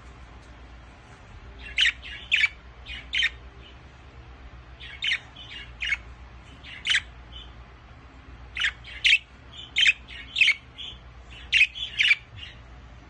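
Budgerigar giving short, sharp calls in little groups of two to four, about a dozen in all, with pauses between the groups.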